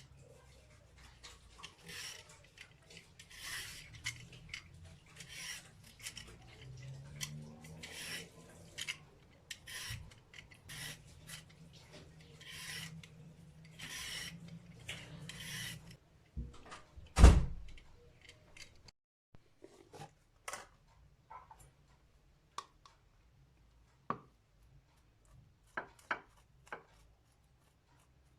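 A run of short rubbing or scraping strokes, roughly one a second, then a single loud knock and a few scattered light clicks and taps, like hands working with objects on a surface.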